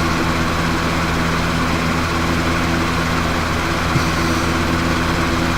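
Steady mechanical hum: a few low held tones under an even hiss, with a faint tap about four seconds in.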